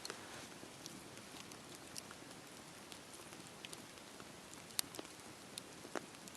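Campfire burning: a steady soft hiss with irregular sharp crackles and pops, two louder pops near the end.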